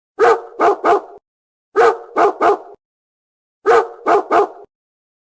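A dog barking in three quick bursts of three barks each, about a second and a half apart.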